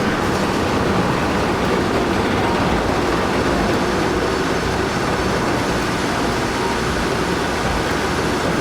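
Steady, loud noise of a heavy vehicle on the move.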